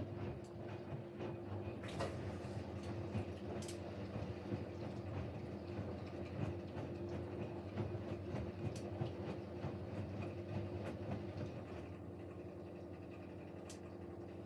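Siemens Siwamat Plus 574 washing machine at the end of its first rinse: the drum turns the wet laundry with sloshing and small clicks over a steady hum. About twelve seconds in the tumbling stops and only a quieter steady hum is left.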